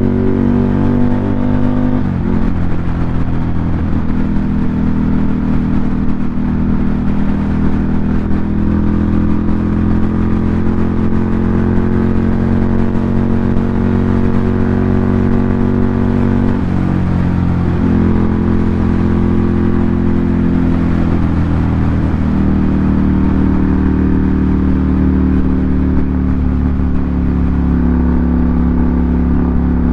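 Ducati Monster 797's air-cooled L-twin engine running through an SC Project aftermarket exhaust at a mostly steady pitch. The pitch dips and shifts briefly a few times, as with throttle changes or gear shifts.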